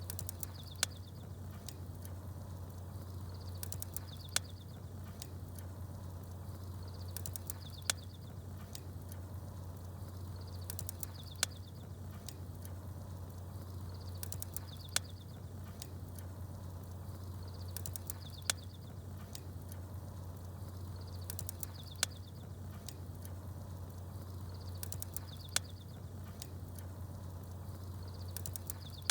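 Campfire crackling with small birds chirping over a steady low rumble. A sharp crackle and a short burst of high chirps come back about every three and a half seconds, evenly spaced like a looped recording.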